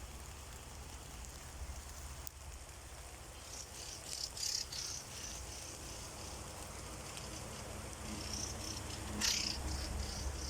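Faint bird calls outdoors: scattered short, high-pitched calls in two spells, the loudest near the end, over a low steady rumble.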